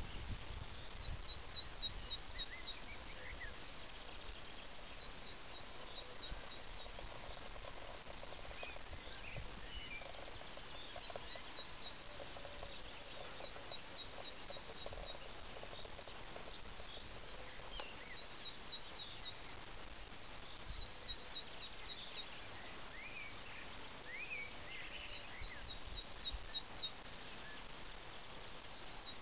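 Songbirds singing. One repeats a short run of quick, high, evenly spaced notes every few seconds, with other chirps in between, over a steady outdoor hiss and an occasional low wind rumble on the microphone.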